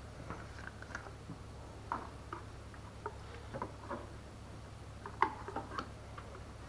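Scattered light clicks and taps, a few each second, with the sharpest about five seconds in, over a low steady hum.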